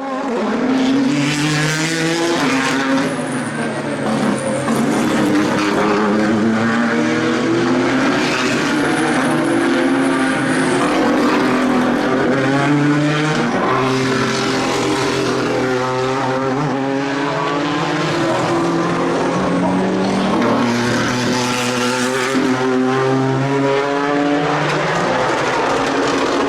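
Ford GT GTE racing cars' twin-turbo V6 engines running hard, several notes overlapping and rising and falling in pitch through acceleration and gear changes. A thin high whistle comes in twice.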